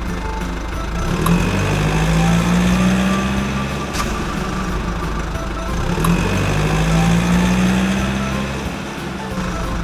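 A motor vehicle engine running, like a truck's, with a steady low hum that swells twice, about five seconds apart.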